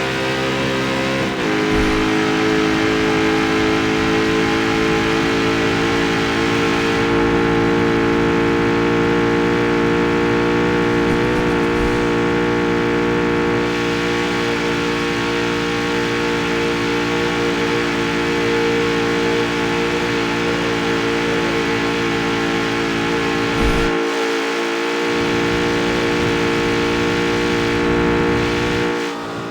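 Jaguar F-Type's supercharged 5.0-litre V8 running at steady revs. Its note drops about a second in, then holds an almost constant pitch for the rest of the stretch.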